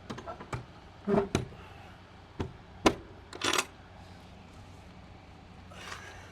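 A handful of sharp knocks and clanks, a second or so apart, as something that takes two hands to close is shut by hand. After that, only a steady low hum.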